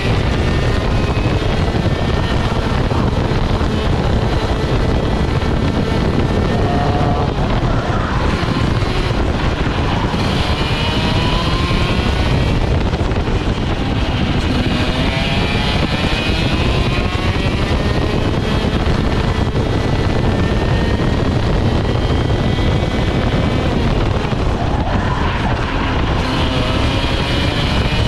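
Kart's ROK GP 125cc two-stroke engine at racing speed, its pitch climbing on the straights and dropping back under braking into the corners, again and again through the lap. Wind rushes over the on-board microphone throughout.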